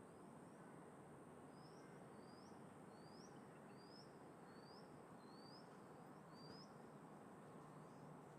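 A small songbird calling faintly, a run of short rising chirps about one and a half a second, clearer from about a second and a half in, over a steady faint background hiss.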